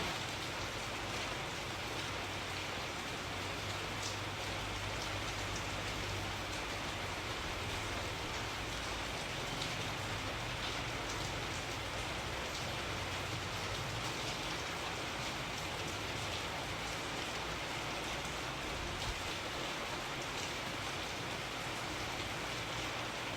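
Steady rainfall, drops pattering evenly on a surface with faint scattered ticks.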